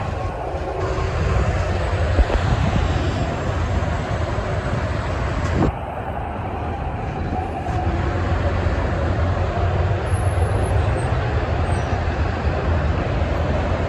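Steady road traffic with heavy trucks passing: a continuous deep rumble of engines and tyres. The sound shifts abruptly about six seconds in, then carries on.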